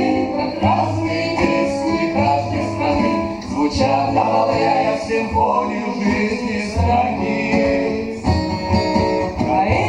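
Song played live on acoustic guitar, with singing over the guitar accompaniment.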